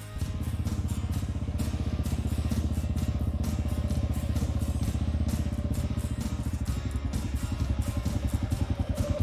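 Small go-kart engine running with a fast, even putter, cutting in suddenly and growing a little louder toward the end.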